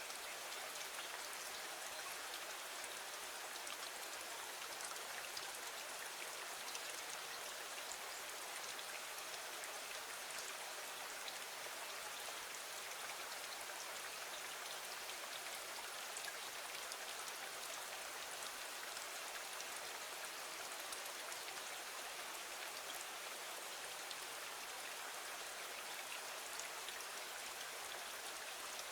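Steady rain falling: an even hiss with many fine drop ticks, unchanging in level throughout.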